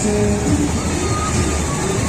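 Busy street noise: road traffic running steadily, with music playing through it.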